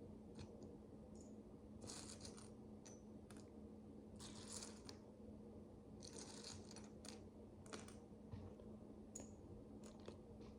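Micro bricks (miniature plastic building bricks) being handled: faint scattered clicks and several short rattling, rustling bursts as loose pieces are shifted and pressed together, over a low steady hum.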